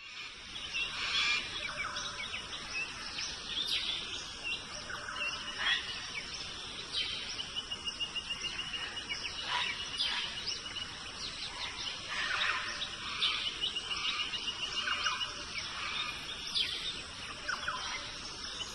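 Several birds chirping and singing over a steady hiss. Twice, a bird gives a rapid trill of evenly repeated notes.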